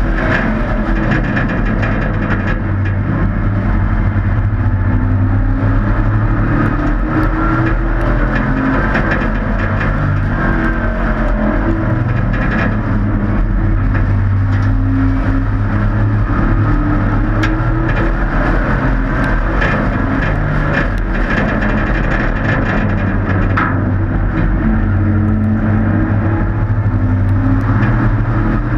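Several hobby-class race trucks running laps together, their engines revving up and easing off in overlapping rising and falling tones as they race around the track.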